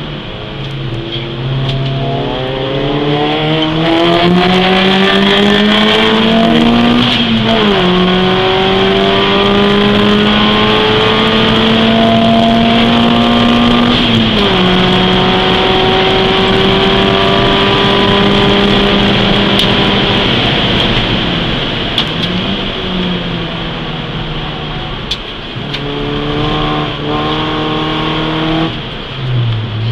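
Peugeot 206 S16's 2.0-litre 16-valve four-cylinder engine heard from inside the cabin under hard acceleration: the revs climb, drop sharply at two upshifts, then hold high. Later the revs fall away as the driver lifts off, with short rises near the end at downshifts.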